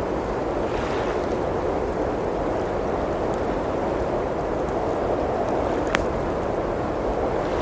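Blizzard wind blowing steadily against the cabin, with a wood fire crackling in the fireplace. A few faint snaps, and one sharp pop about six seconds in.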